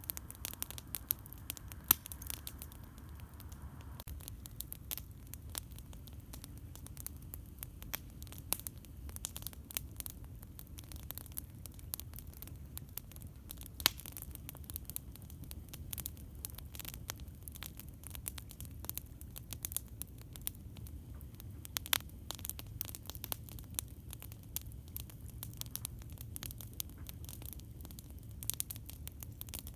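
Campfire crackling, with irregular sharp snaps and pops throughout, a few louder ones standing out, over a steady low rumble.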